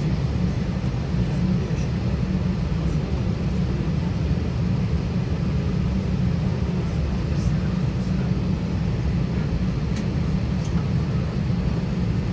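Steady low rumble and hiss of an Airbus A320's cabin, heard from a window seat, with no sudden changes.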